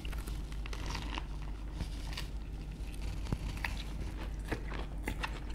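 Two people biting into and chewing Vietnamese fresh rice-paper spring rolls filled with shrimp, pork belly, lettuce, bean sprouts and cucumber, with many small clicks and crackles of mouth sounds.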